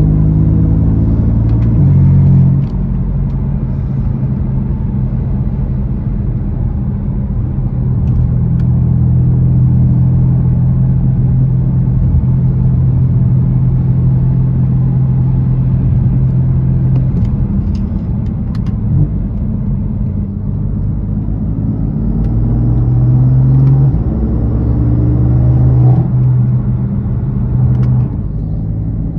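BMW M4's twin-turbo straight-six running under way, its steady drone stepping down and up in pitch several times as the revs change.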